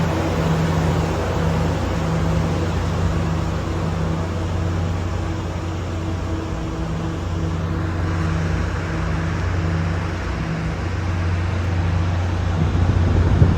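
A vehicle's engine running steadily: a constant low drone with a steady hum over a rushing noise, with no change in pitch.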